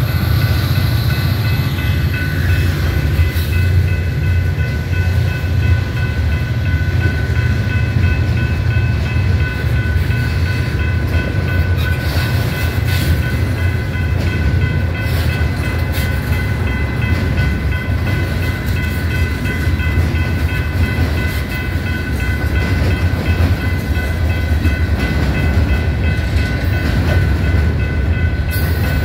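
Freight train passing at a grade crossing. The trailing EMD SD40M-2 diesel locomotive goes by first, then a long string of boxcars and covered hoppers rolls past with a steady low rumble and wheel clatter over the rail joints. A crossing bell rings steadily throughout.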